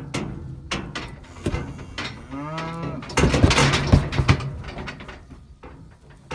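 Bull calf bawling once while being castrated with a knife, a single call that rises and falls, with loud clattering and knocking around it for about a second just after the call as the calf jumps.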